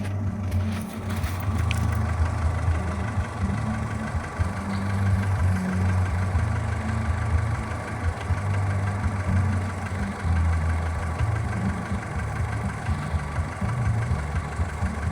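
Škoda Fabia 1.4 engine idling with a knock that the owner cannot identify and that comes from somewhere underneath the engine; its hydraulic lifters also tick a little while cold.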